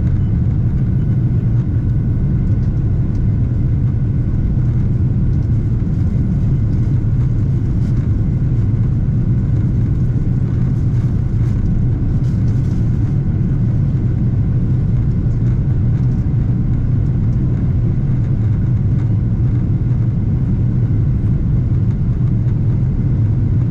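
Steady cabin noise inside a Boeing 777-300ER: a constant low rumble of its GE90 engines and rushing air, with a few faint steady tones above it.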